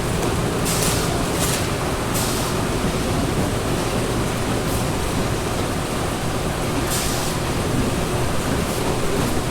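Colour printing press running: a steady machine roar with a few short hissing bursts, the first three close together about a second in and another about seven seconds in.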